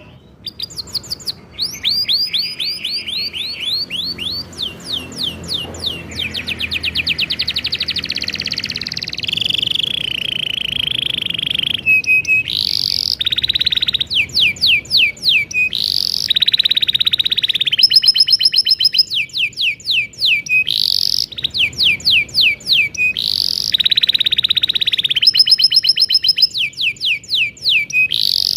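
Male domestic canary singing a long, continuous song: rapid series of repeated down-sweeping whistled notes alternating with fast trills and rolls, changing phrase every second or two.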